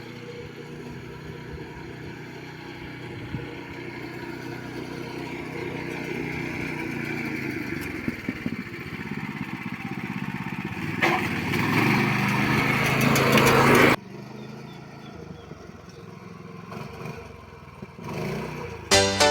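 A motor vehicle's engine running steadily and slowly growing louder, with a louder rush of noise for a few seconds that cuts off abruptly about 14 seconds in, followed by quieter engine sound.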